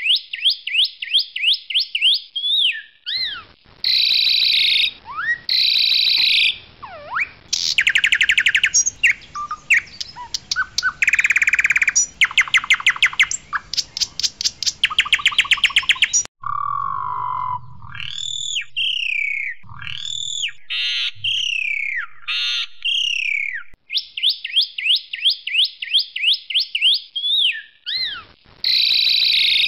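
Asian pied starling (jalak suren putih) singing loud, varied song: strings of sharp repeated whistled notes, fast rattling runs, and swooping whistles. The phrases change abruptly several times, as in a spliced song recording.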